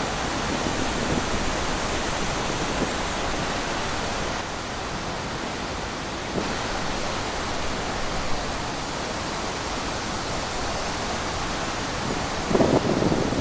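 Steady rushing wind, an even hiss, with a louder gust near the end.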